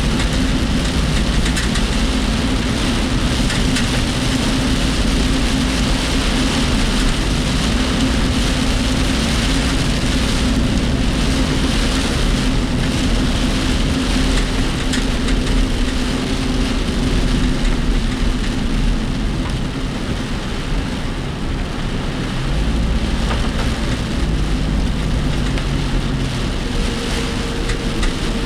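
Steady engine and road noise inside a work vehicle's cabin while driving in typhoon rain, with rain on the body and the vehicle's body rattling.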